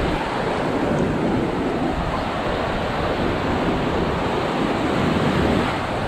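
Heavy ocean surf breaking and washing on a beach, stirred up by an approaching hurricane, with wind buffeting the microphone.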